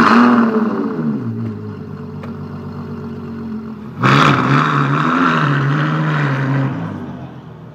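Ferrari FF's V12 through a Novitec Rosso aftermarket exhaust, flaring suddenly and loudly right at the start, then dropping back to a steady idle. About four seconds in it rises sharply once more, wavers, and fades back down near the end.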